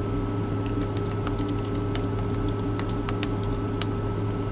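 Scattered light clicks and taps of food being handled and mixed in a container, over a steady low hum with a faint high tone inside a truck cab.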